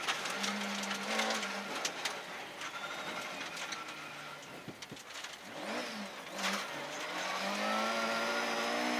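Rally car engine heard from inside the cabin as the car takes a hairpin right: the revs fall away and stay low through the turn, then climb steadily as it accelerates out.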